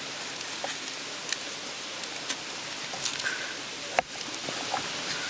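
Mountain stream running steadily. A few small clicks and a sharp knock about four seconds in sound over it.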